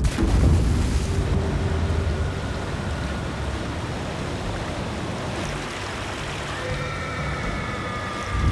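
A saltwater crocodile strike in water: a loud burst of splashing at the start, then a steady churning wash of water.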